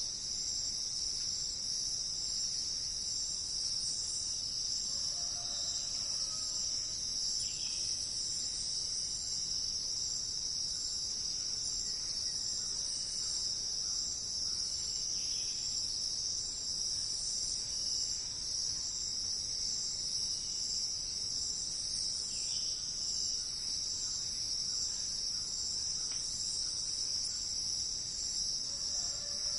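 Steady, high-pitched chorus of insects, unchanging throughout, with faint short bird calls a few times.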